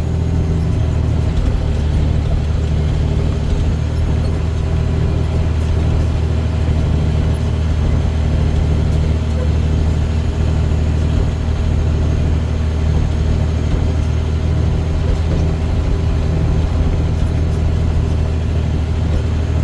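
Dump truck engine running steadily under way, a deep, even drone with road noise that holds at one pitch, heard from inside the cab.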